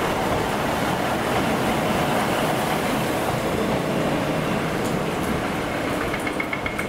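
Transport for Wales Class 150 Sprinter diesel multiple unit running past as it arrives: a steady rumble of its underfloor diesel engines and wheels on the rails, easing slightly toward the end. A thin, high, steady tone comes in near the end.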